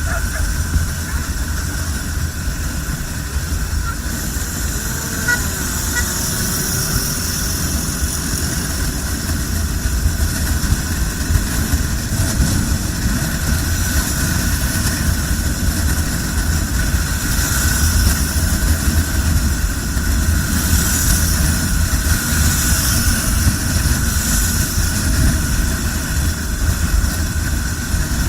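Motorcycle riding at highway speed: a steady low wind rumble on the microphone over engine and road noise, with other traffic around.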